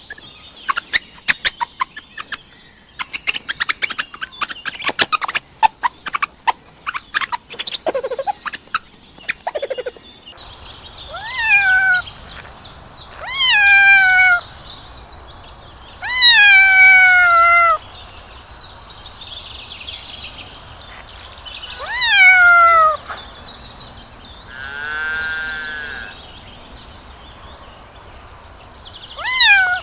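A mongoose chattering in rapid clicks and short squeaks for about ten seconds, followed by a domestic cat meowing several times, each meow rising then falling in pitch.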